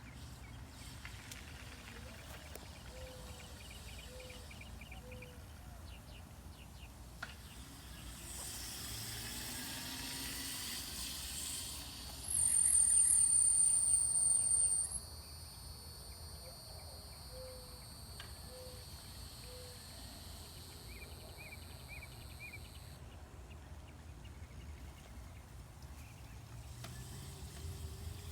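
Outdoor background with birds chirping in short repeated notes. About halfway through, a loud high-pitched whine holds steady for nearly three seconds, then stops suddenly.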